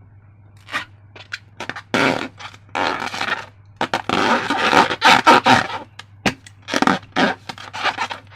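Slime being handled: irregular wet squelching and scraping, in short and longer bursts.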